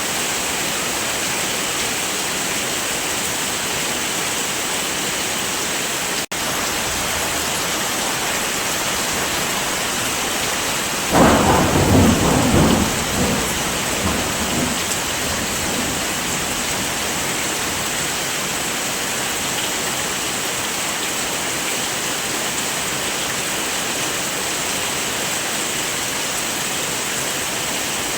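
Steady heavy rain with a clap of thunder about eleven seconds in that rumbles on and fades over several seconds. The rain cuts out for an instant about six seconds in.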